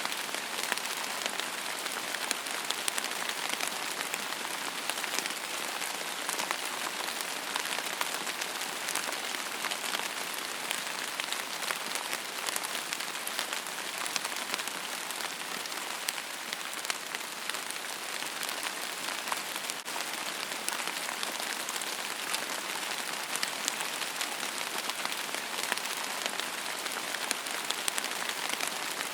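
Steady rain falling on a surface, an even hiss peppered with the ticks of individual drops.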